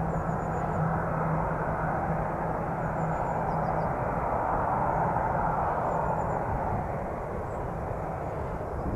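Jet airliner engines running, a steady rush of noise with a low hum that fades about four seconds in; the noise eases slightly near the end.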